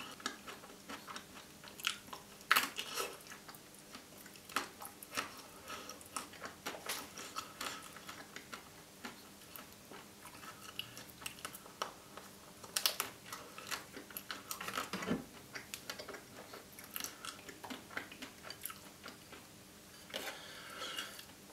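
Close-up chewing and biting of a Maxibon ice cream sandwich coated in white chocolate: irregular small crunches and wet mouth sounds.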